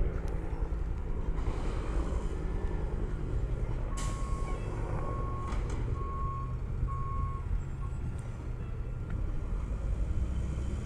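Garbage truck's diesel engine running steadily, with its reversing beeper sounding four times about a second apart, then once more, cut short, as the truck backs up. A sharp noise comes as the beeping starts.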